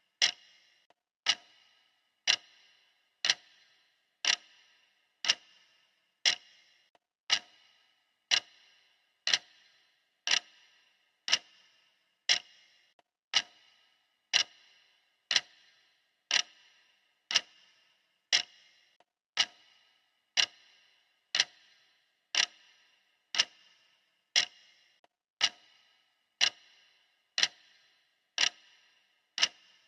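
Clock ticking steadily, about one tick a second, each tick a sharp click with a short ring after it.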